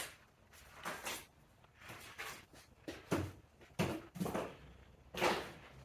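A sharp click, then a run of irregular short knocks and clatters, about one a second, as e-bike parts are handled during assembly.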